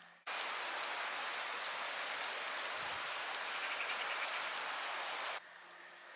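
A steady rushing, rain-like hiss that starts abruptly, holds for about five seconds, then cuts off abruptly.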